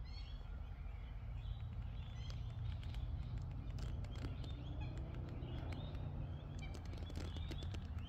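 Small birds chirping again and again over a steady low rumble, with scattered light clicks.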